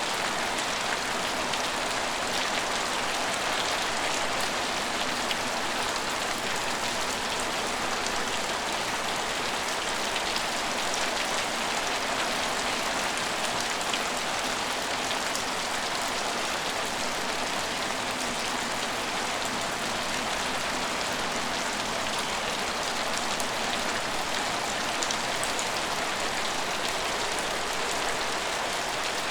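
Steady rain falling on hard surfaces, an even hiss with scattered individual drops ticking through it.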